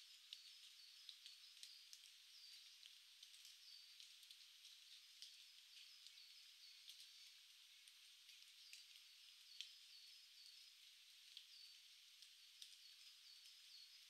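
Faint small birds calling: short, high notes repeated in quick little runs, over a steady hiss with scattered light ticks.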